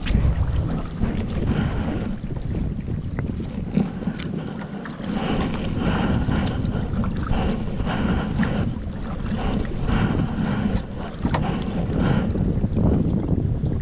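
Wind buffeting the microphone in a low rumble, with water splashing and lapping against a kayak in a run of repeated splashes through the middle.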